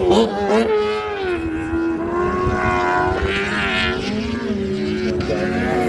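Racing sidecar outfits' engines passing at high revs: the note falls about a second in as one goes by, then a higher note rises around the middle as another accelerates.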